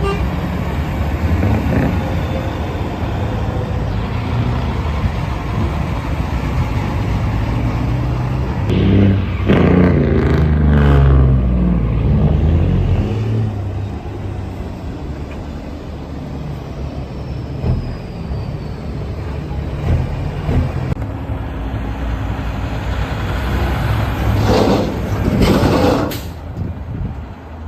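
Truck engines running. About nine seconds in, one grows loud and its pitch falls away over several seconds. Near the end come a few short bursts of noise.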